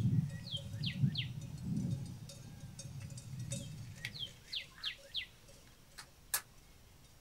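A bird calling outdoors: short, falling chirps, about three in the first second and four more around the fifth second, over a low rumble that fades in the first two seconds. Two sharp clicks come near the end.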